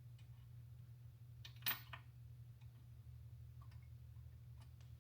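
Light ticks and one sharper click, about a third of the way in, of small transmission parts being handled and fitted into the case, over a steady low hum.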